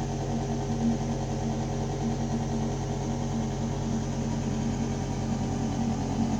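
Building ventilation system running: a steady, deep mechanical hum with air rushing through the ducts.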